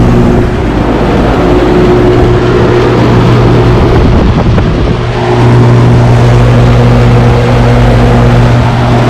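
Old 2003 EMI air-conditioner condensing unit running: a steady compressor hum over the rush of the condenser fan. The hum drops back for a few seconds and comes back strongly about five seconds in.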